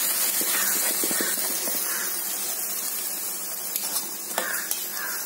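Crumbled raw goat blood sizzling in hot oil in a kadai, just poured in over fried onions: a steady hiss that slowly dies down. A spatula scrapes and knocks against the pan a few times about four seconds in.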